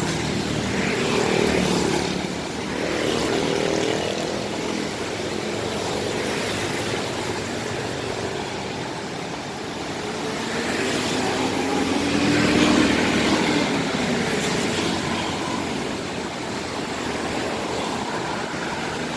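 Intercity buses driving past on a wet road: diesel engines running, swelling twice as buses go by, over a steady hiss.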